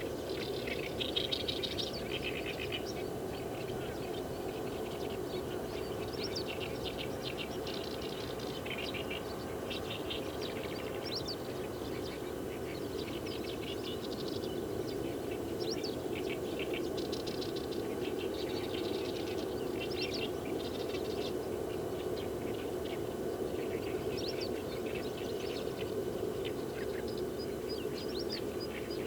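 Wild birds chirping and calling, many short high calls in quick, irregular series, over a steady low hum.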